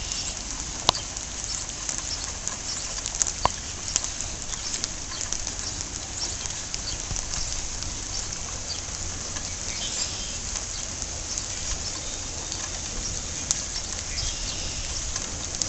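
Steady rain falling and pattering on surfaces, with many small drip ticks and a few sharper drop clicks about a second in, around three to four seconds in, and near the end.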